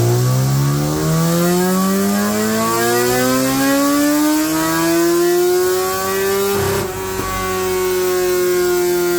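Motorcycle engine making a full-throttle dyno pull, its pitch climbing smoothly through the revs for about six seconds. Near seven seconds the throttle shuts with a brief crackle, and a steady whine carries on, slowly falling in pitch.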